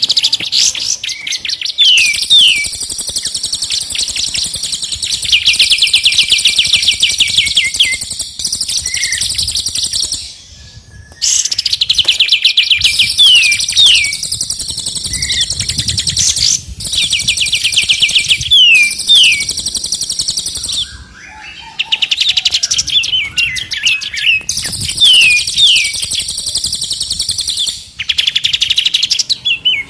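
Recorded songbird song layered as a training track: long phrases of fast rattling trills and high chirps, dotted with short downslurred whistles. Each phrase breaks off for a brief pause before the next begins.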